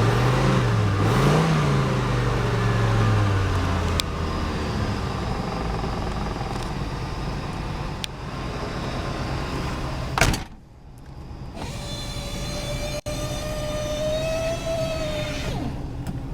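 A 1983 Buick Riviera's 5.0-litre V8 is blipped twice, its pitch rising and falling, then settles to a steady run. About ten seconds in there is a sharp knock, followed by an electric motor whining for about four seconds over the running engine.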